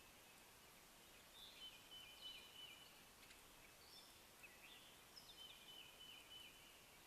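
Faint songbird chirping: a run of short, high, repeated call phrases with quick pitch slides, over a steady background hiss.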